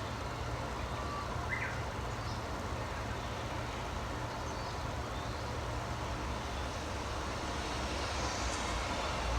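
Steady low outdoor rumble, the kind PANN files as distant traffic, with a few faint, brief bird chirps over it, the clearest about a second and a half in.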